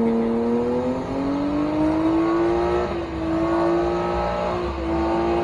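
A car engine held at high revs, its pitch climbing over about two seconds and then holding steady.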